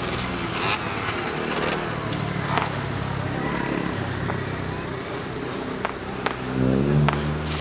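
Fireworks bursting: three sharp bangs, about two and a half, six and seven seconds in, over a steady low drone that swells near the end.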